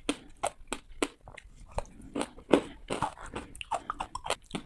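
Close-miked bites into hard ice: sharp cracking crunches in quick succession, several a second.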